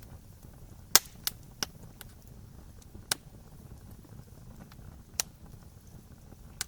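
Wood campfire crackling: a handful of sharp, irregular pops, the loudest about a second in, over a faint low rumble of the fire.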